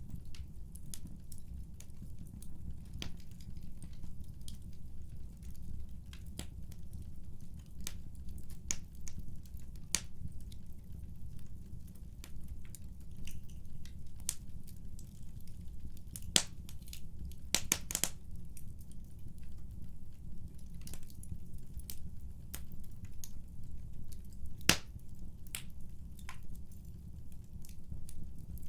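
Fire burning in a fireplace: a steady low rumble of flame with irregular sharp crackles and pops. A cluster of louder pops comes a little past halfway, and a single loud pop comes later.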